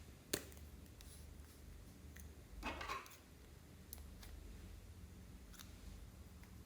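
Small close-up handling sounds: one sharp click, then a short scraping rustle about two and a half seconds in, with a few faint ticks in between.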